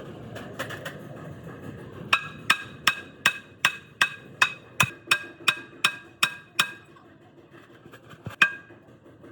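Hammer striking metal: about a dozen evenly spaced ringing blows, a little under three a second, then a pause and one harder blow near the end.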